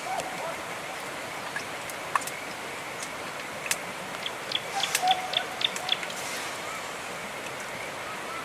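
Steady hiss of rain, with a run of sharp clicks and taps about halfway through and a brief faint chirp among them.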